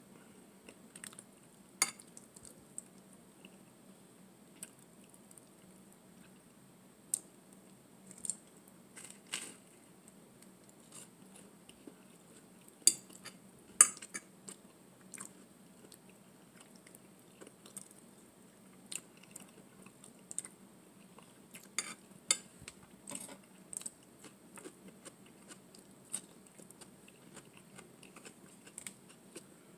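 Close-up chewing of bow-tie spaghetti and garlic bread, with scattered sharp clinks of a metal fork against a glass bowl; the loudest clinks come about halfway through.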